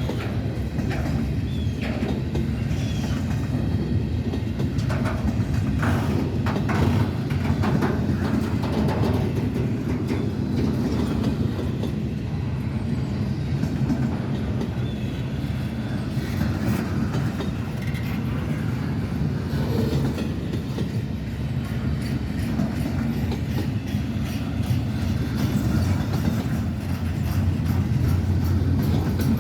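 Norfolk Southern train's railcars rolling past: a steady low rumble with wheel clatter and clicks over the rail joints, the clicking busiest in the first several seconds.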